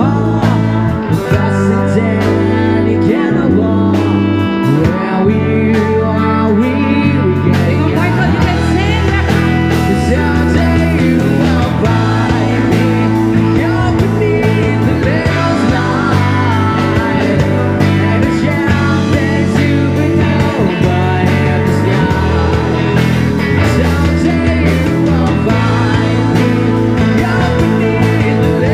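Live rock cover band playing a song, with electric guitar over bass and drums in a passage without recognised lyrics.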